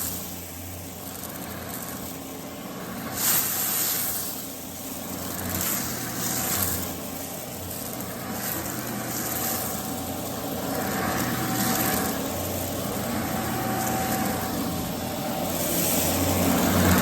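Vacuum cleaner running steadily while it sucks up spilled rice on a rug. Its hiss swells and fades every few seconds as it is pushed back and forth.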